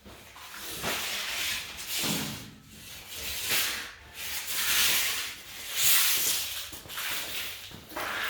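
Hand sanding of wood with 220-grit sandpaper: rasping back-and-forth strokes, about one a second, to smooth the piece for its finish.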